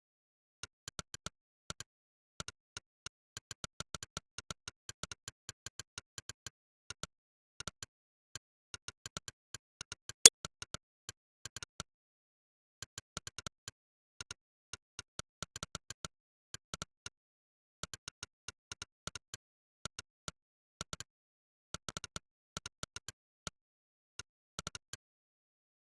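Monkeytype's synthetic 'click' keypress sound, one short click for each keystroke of fast typing, in irregular runs of several clicks a second broken by brief pauses. One click about ten seconds in is much louder than the rest.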